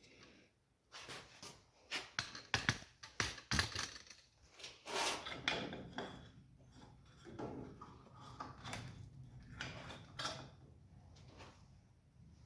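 Irregular clanks and knocks of metal tools and parts being handled, with a short rush of noise about five seconds in.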